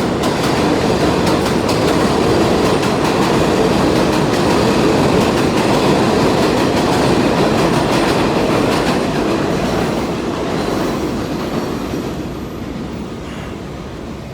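Elevated subway train running overhead, a loud, continuous rumble and rattle of wheels over the rails with rapid clicking. It fades away over the last few seconds as the train moves off.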